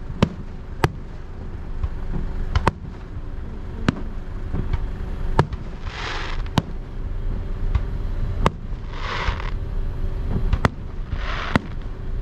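Aerial fireworks shells bursting, a sharp bang every second or so at an uneven pace, with three short stretches of hissing noise about halfway through, two-thirds through and near the end.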